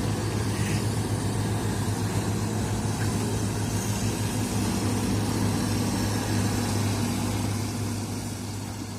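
Heavy equipment's diesel engine running steadily with a deep, even hum, fading out near the end.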